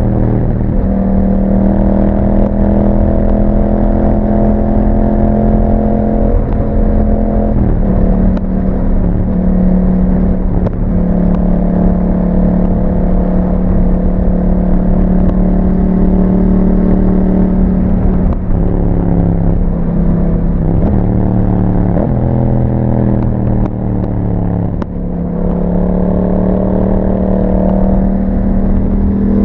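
2021 Yamaha MT-07's 689 cc parallel-twin engine running under way through an aftermarket Akrapovic exhaust, mostly at a steady pitch. The pitch shifts about a quarter of the way in, then dips and climbs back over several seconds near the end as the revs fall and rise.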